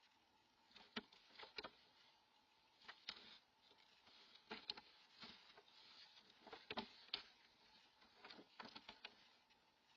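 Faint, scattered scratches and taps of a barn owl shifting about its nest box as it feeds on an opossum.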